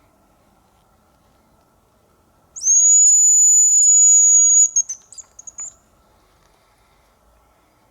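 Hazel grouse decoy whistle blown to lure the birds: one long, very high, thin note held for about two seconds, then a short broken run of quick notes, imitating the hazel grouse's song.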